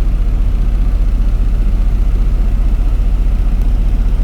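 Big truck engine idling steadily: a deep, low rumble with an even rapid pulse.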